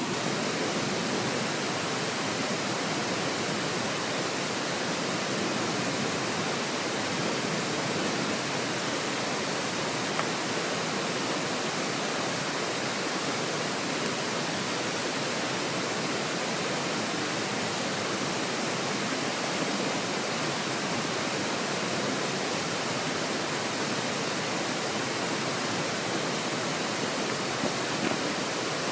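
Mountain stream rushing steadily, an even wash of flowing water with a couple of faint ticks.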